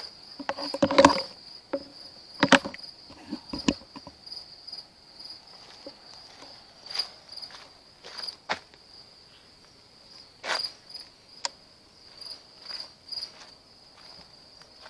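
Crickets chirring steadily, a continuous high trill, with scattered short knocks and rustles over it, the loudest about a second in and again around ten and a half seconds.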